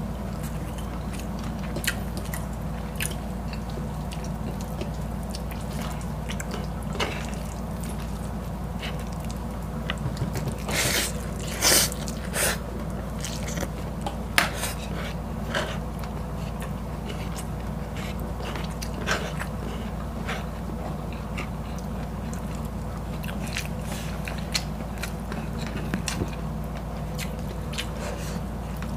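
Close-miked mukbang eating sounds: mouths chewing and biting fried noodles and breaded chicken fillet, with scattered short crisp clicks and crunches over a steady low hum. The loudest bites come in a cluster about eleven to twelve seconds in.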